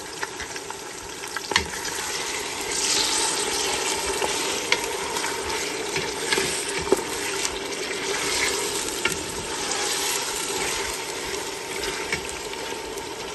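Raw chicken pieces and sliced onions sizzling in hot oil in a pot while being stirred with a wooden spoon. The sizzle swells a few seconds in and again near the end, with a few sharp knocks along the way.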